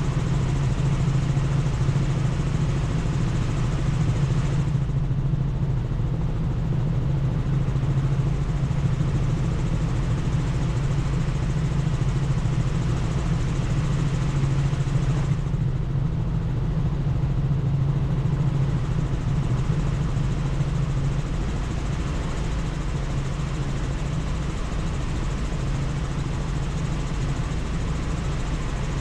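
Helicopter in flight heard from inside the cabin: a steady low drone from the rotor and engine over a constant rushing haze.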